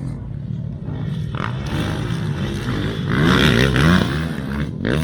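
Motocross dirt bike engines running and revving, their pitch rising and falling, loudest about three to four seconds in.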